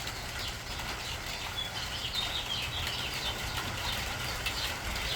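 A flock of small songbirds chirping and twittering together, the calls growing busier after about two seconds, over the soft patter of light rain and a steady low rumble.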